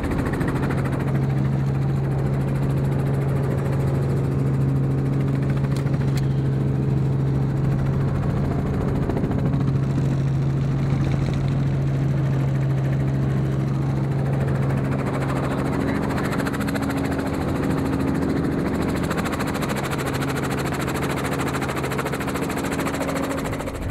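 Helicopter running steadily, a constant engine and rotor noise with a steady low hum.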